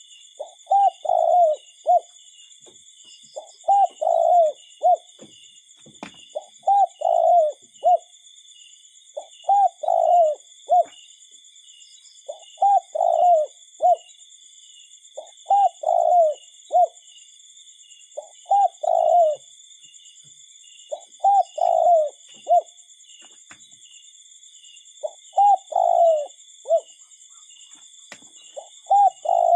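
A bird repeats a low phrase of three or four falling notes about every three seconds, ten times in all. A steady high buzzing with fast pulses runs underneath.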